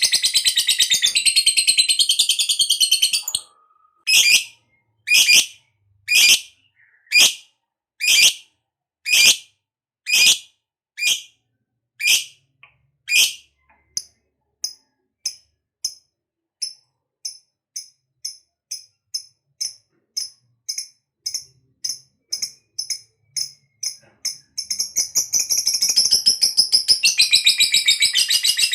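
A lovebird's long, dense chattering trill (the 'ngekek' call) stops after about three seconds. It gives way to a run of separate sharp chirps, about one a second, which then come quicker and fainter, about two a second. The long chatter starts up again a few seconds before the end.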